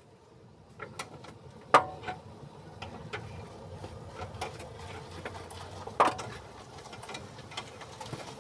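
Irregular clicks and knocks of hand tools and metal car parts being handled, with two louder knocks, one a little under two seconds in and one about six seconds in.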